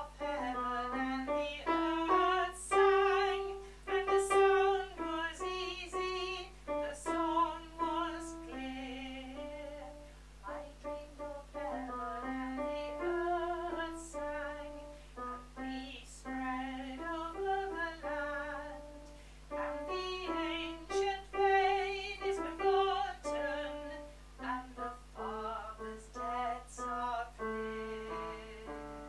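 Female alto voice singing a slow melodic line with vibrato, accompanied by piano.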